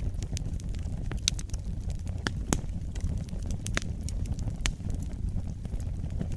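Wood fire burning, with a steady low rumble and frequent irregular crackles and pops, some sharper and louder than others.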